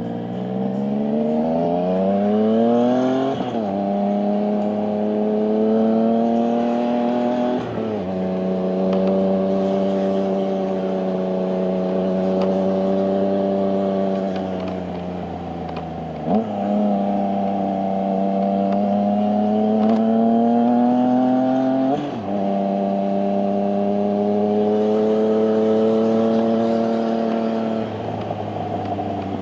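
Triumph sportbike engine pulling through the gears while riding. Its pitch climbs and drops sharply at each gear change, about four times, with long stretches at a steady pitch in between.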